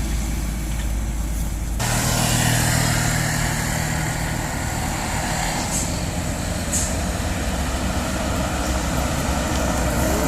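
Steady motor-vehicle engine and road noise, changing abruptly about two seconds in, with two short high hisses later on.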